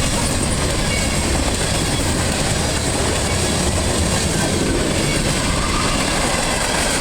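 Freight train's cars rolling past at close range: a steady, loud rumble of steel wheels on the rails.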